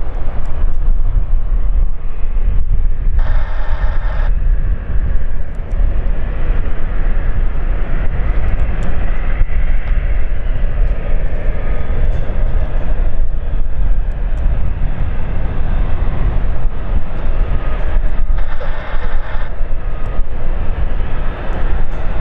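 Wind buffeting the microphone in a steady, loud rumble, with a faint whine that rises and falls near the middle.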